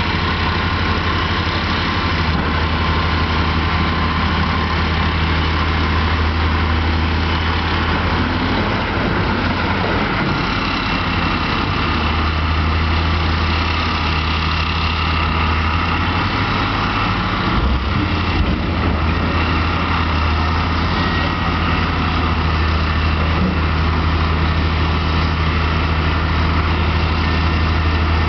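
Heavy diesel engines of a Caterpillar 5080 hydraulic shovel and haul truck running with a steady low hum. A single knock comes about two-thirds of the way through.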